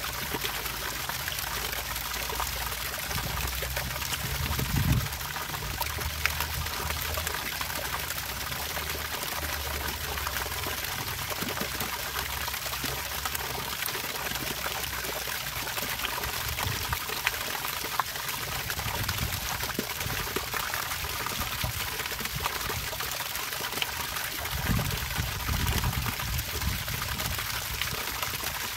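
Water trickling and pouring steadily in a continuous splashing hiss, with a few brief low rumbles, the strongest about five seconds in.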